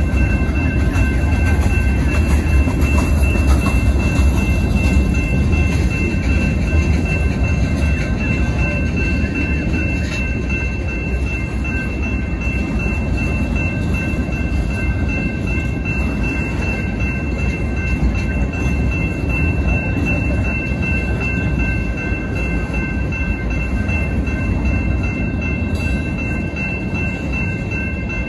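Freight cars rolling past at a level crossing: a steady low rumble of steel wheels on rail, easing slightly toward the end. Above it the crossing bell rings as steady high tones.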